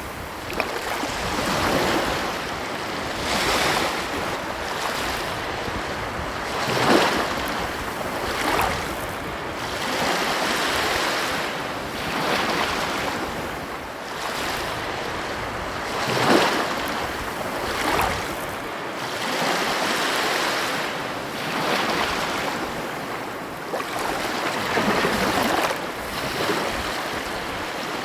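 Ocean waves breaking on a shore, a continuous wash of surf that swells and falls back every few seconds, with a few stronger breaks.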